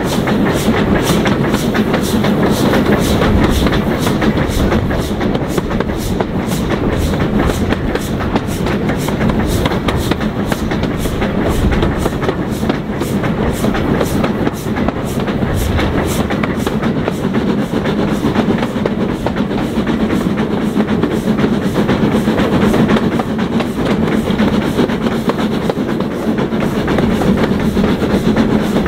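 Steam train hauled by S&D 7F 2-8-0 No. 53809 running along the line, with a steady rhythmic clatter.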